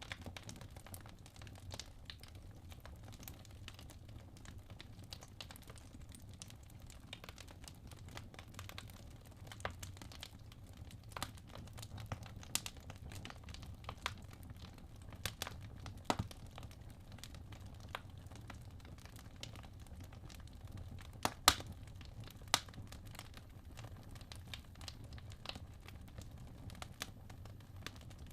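Wood fire burning in a fireplace: a steady low rumble of flames with irregular crackles and snapping pops from the logs, the loudest a sharp pop about three-quarters of the way in, quickly followed by another.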